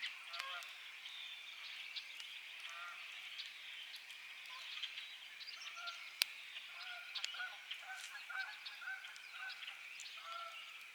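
Campfire crackling and popping, with one sharp, loud snap about six seconds in. Behind it, a steady high-pitched chorus of spring night frogs and insects, and birds calling in short, repeated honking notes.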